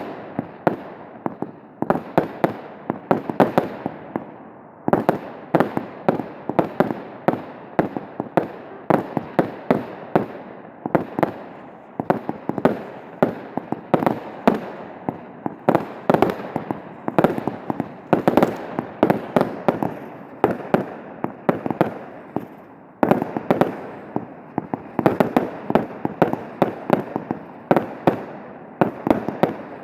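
Professional display fireworks going off without pause: many shell bursts and launches a second, each bang echoing briefly, over a constant layer of crackle.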